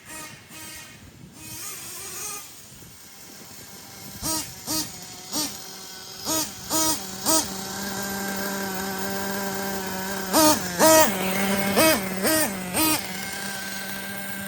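Ofna Titan RC monster truck's .25 nitro engine idling, blipped in about eleven short, sharp revs in two clusters; the engine is still set rich.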